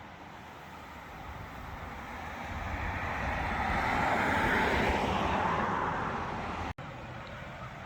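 A vehicle passing by: a noisy rush that swells over a few seconds, peaks midway with a slightly falling pitch, then fades.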